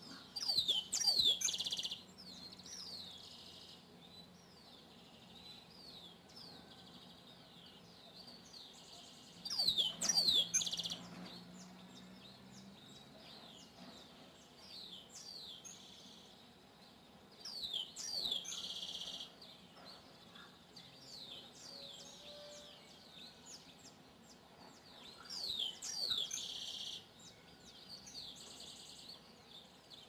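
Birds singing: a short song repeated four times, about every eight seconds, each a quick run of falling high whistled notes ending in a buzzy trill, with fainter chirps from other birds in between.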